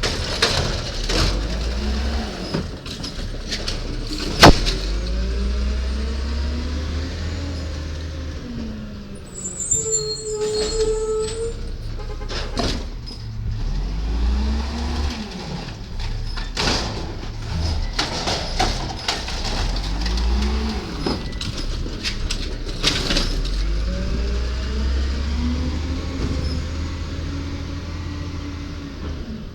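Garbage truck at work: its engine revs up and down again and again as the hydraulics run, with sharp clanks and knocks throughout and one very loud bang about four seconds in.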